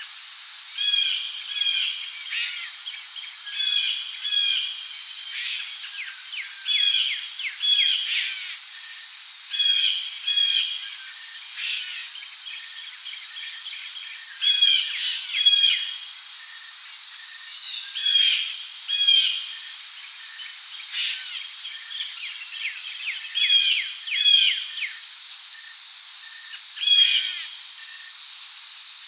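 Rainforest ambience: a steady, high-pitched insect trill, with birds repeatedly calling in short falling notes, often two at a time, every second or two.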